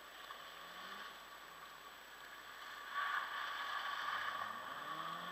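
Small rally hatchback's engine revving as the car slides around a marker barrel, faint at first and growing louder from about three seconds in as it comes closer, its pitch rising and falling.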